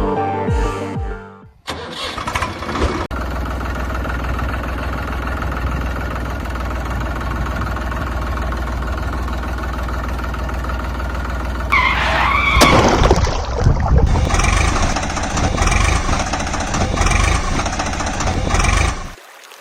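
A vehicle engine running steadily with a deep low drone. About twelve seconds in a wavering high-pitched glide rises and falls over it, and the engine sound grows louder, then stops shortly before the end.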